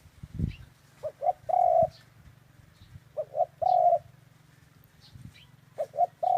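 A dove cooing: three phrases about two and a half seconds apart, each two short coos followed by a longer held coo on the same pitch. A low thump sounds near the start, with faint high chirps of small birds in the background.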